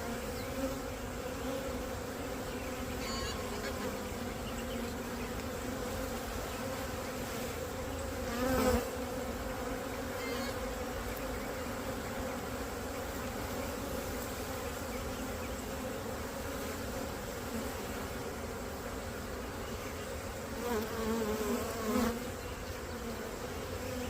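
Dense buzzing of a honey bee swarm flying around a nuc box while it is being hived, a steady hum that swells louder for a moment twice.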